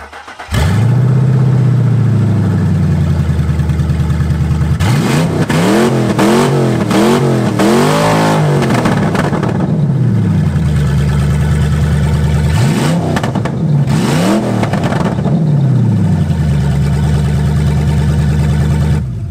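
Ford Explorer engine starting about half a second in, idling, then revved repeatedly in two bursts, one rev near the middle climbing highest, before it is shut off near the end. The engine is revved hard enough to go straight into valve float rather than hitting the rev limiter.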